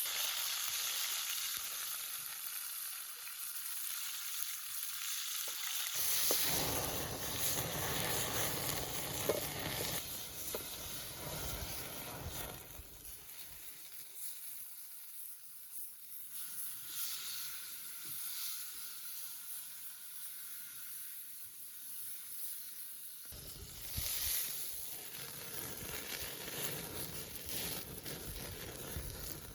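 Food sizzling and frying over a cooking fire, a steady hiss. Twice a deeper, fuller noise joins in, about six seconds in and again near the end.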